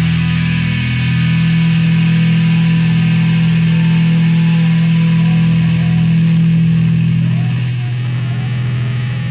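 Loud distorted electric guitar holding a steady droning chord.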